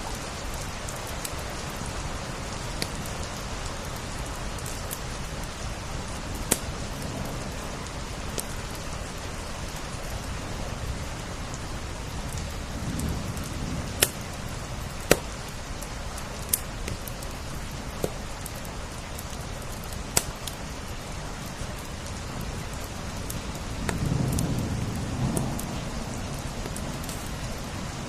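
Steady rain on window glass, an even hiss, mixed with a wood fire crackling in scattered sharp pops. A low swell of sound rises briefly in the middle and more strongly near the end.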